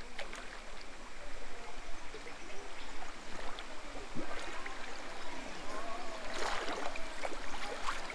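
Hot-spring water running and trickling steadily in a natural pool, with faint voices in the background.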